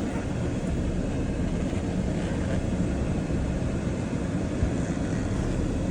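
Steady low rumble of a 2013 Toyota Tacoma's engine and tyres, heard from inside the cab as the truck reverses slowly through a parking lot. No clunks or creaks from the steering or suspension stand out.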